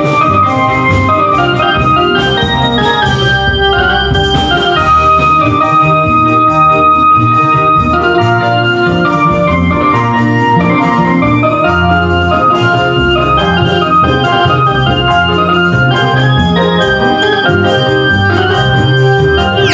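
Electronic keyboard music in an organ voice, playing a stepping lead melody over a steady bass line: the kind of amplified keyboard music that accompanies an obrog barongan procession.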